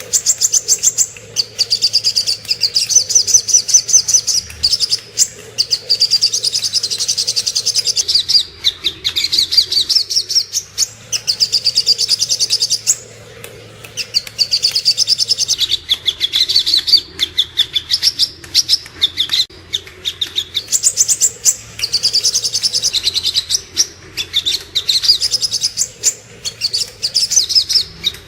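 Sogok ontong, a small sunbird, singing: fast, high, twittering trills of rapid chirps in phrases a few seconds long, with brief pauses between them. It is a masteran song recording used to tutor caged songbirds.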